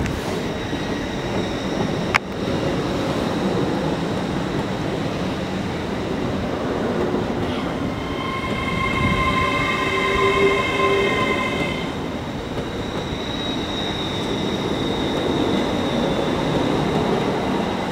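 A train running on the rails with steady running noise, and a high metallic wheel squeal of several tones that sets in about eight seconds in and stops about four seconds later. A single sharp click about two seconds in.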